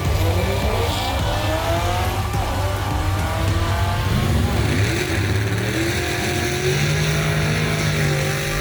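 Car engine accelerating hard, its note rising and dropping back several times as it shifts up through the gears, then holding a steady note near the end.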